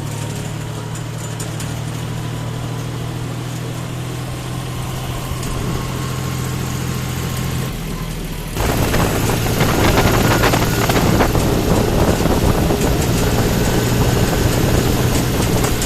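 John Deere tractor's diesel engine running steadily. About halfway through, the sound suddenly turns louder and noisier and stays that way.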